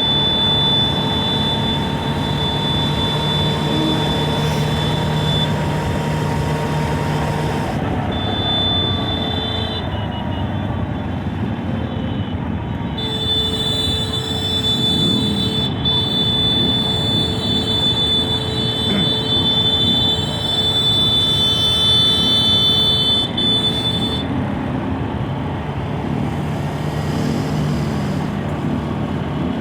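Racing truck running on track: a steady engine and road noise with a high whine that drops out and comes back several times.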